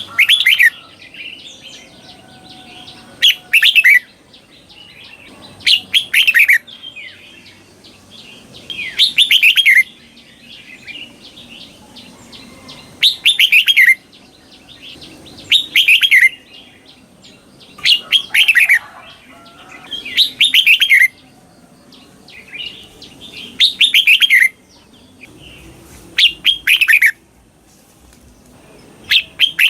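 Red-whiskered bulbul singing its doubled song: a short, loud phrase of quickly falling notes, repeated about every two to three seconds.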